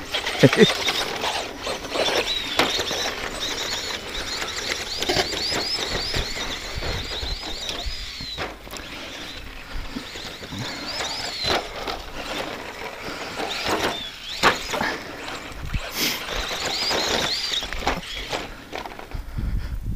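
ECX Circuit stadium truck's 15-turn brushed electric motor whining in repeated rising and falling bursts as the throttle is worked. Sharp knocks are heard several times as the truck lands and bounces over the rough dirt track.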